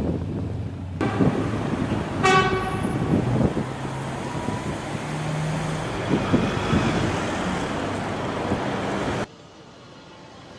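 Lamborghini Aventador's V12 engine accelerating along a city street, its pitch rising, with a short car-horn toot about two seconds in. Near the end the sound drops abruptly to a much quieter hum.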